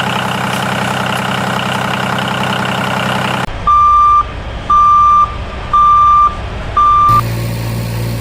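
Vehicle engine running steadily, then a reversing alarm beeping four times, about once a second, with the engine drone back just after the last beep.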